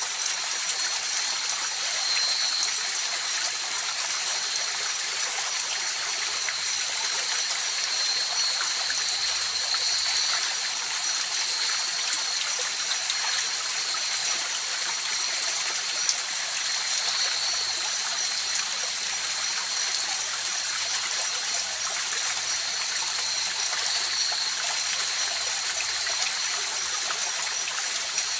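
River water flowing and rushing over rocks, steady and even, with a faint high steady whine laid over it.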